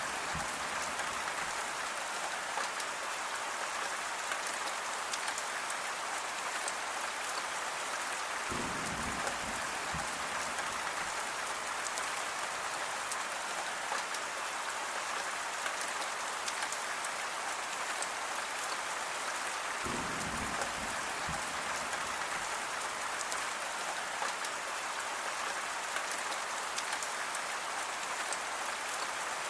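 Steady rain falling, a dense even patter with fine individual drop ticks. A brief low rumble comes in twice, about nine and twenty seconds in.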